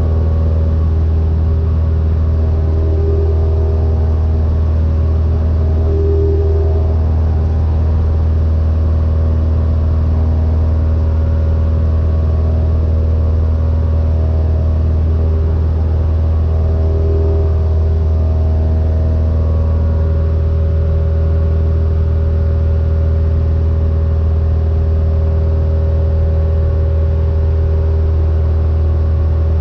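Cessna 172N's four-cylinder Lycoming piston engine and propeller droning steadily in flight, heard from inside the cabin, with a strong low hum.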